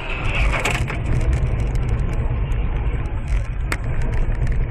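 Car driving on the road, heard from inside the cabin: a steady low rumble of engine and road noise, with a sharp click about three and a half seconds in.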